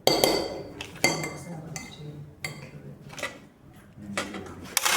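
A spoon knocking and clinking against a bowl of cake batter, a handful of sharp clinks with a short ring, loudest at the start and near the end.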